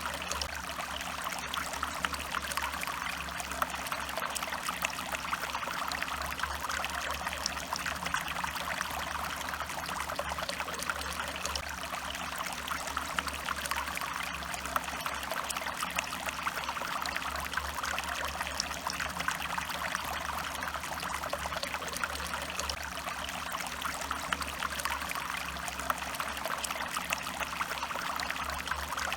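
Stream water flowing steadily over rocks, an even rush of water with many small splashes.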